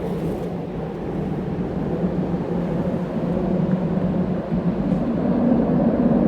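Tram running on rails: a steady low rumble of wheels and running gear that keeps the same level throughout.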